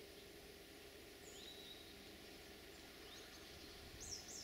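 Quiet open-air background with a few faint, short upward-sweeping bird chirps, the loudest pair near the end, over a faint steady hum.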